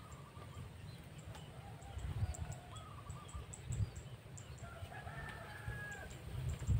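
A rooster crowing a few times, faint, over a low rumble.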